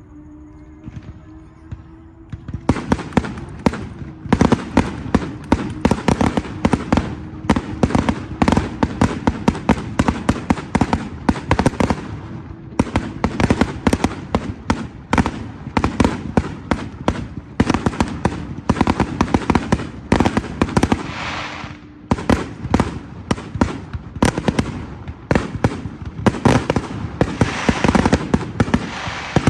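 Fireworks display: after a quieter couple of seconds, a dense barrage of rapid bangs and crackles starts about three seconds in and keeps going, easing off briefly twice.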